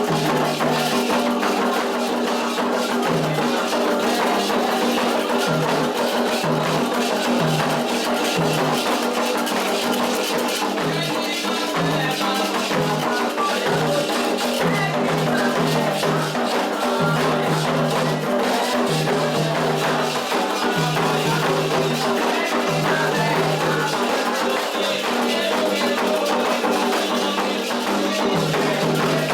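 Candomblé toque for Oxossi and Ossaim: atabaque hand drums with a bell and shakers keeping a steady, dense rhythm.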